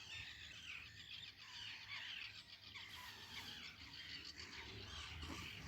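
Faint songbird chorus: several small birds singing steadily in quick, warbling phrases.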